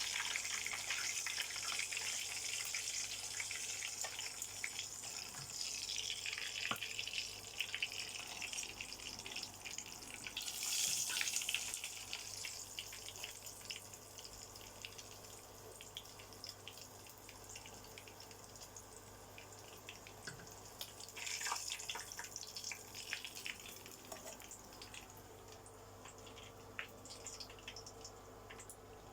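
Quail pieces frying in hot oil: a steady sizzle dense with small crackles and pops, swelling a few times and dying down toward the end.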